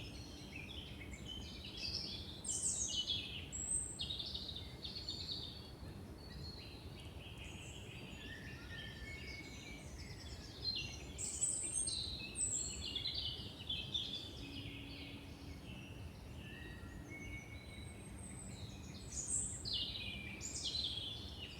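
Songbirds singing and calling in woodland: bursts of quick, varied high notes a few seconds in, again around the middle and near the end, over a steady low background noise.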